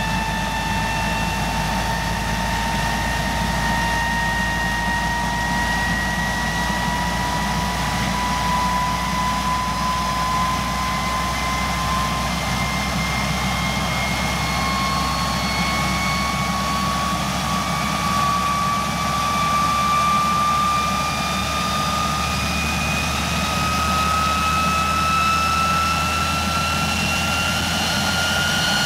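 Jet engine running with a steady high whine that climbs slowly and evenly in pitch, over a low rumble; the uploader says it is a MiG-21's R11F-300 turbojet.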